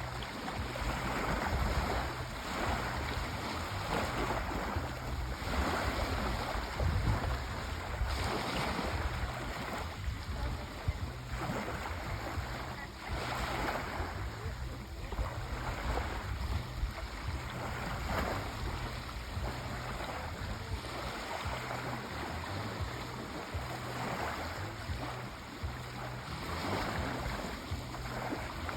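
Sea waves washing in, a continuous rushing surf that swells and eases every few seconds.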